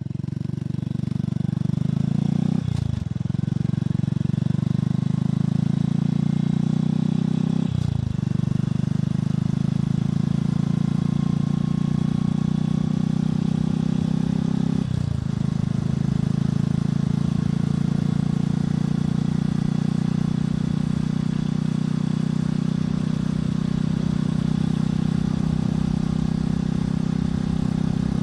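Motorcycle engine and exhaust pulling away through the gears. Pitch rises steadily, then dips briefly at each of three upshifts, a few seconds apart, before settling into a steady cruise.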